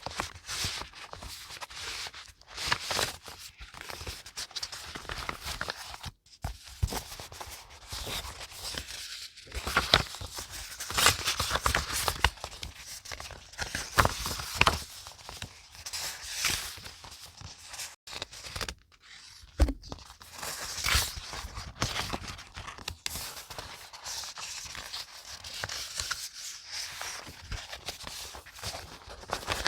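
Paper being handled for scrapbook journaling: irregular rustling and scraping of paper, with sharp taps and snips scattered through.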